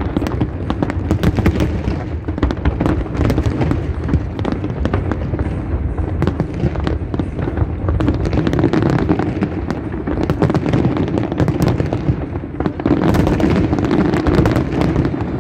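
Aerial firework shells bursting in a dense, continuous barrage: many bangs and crackles overlapping without a pause, growing louder near the end.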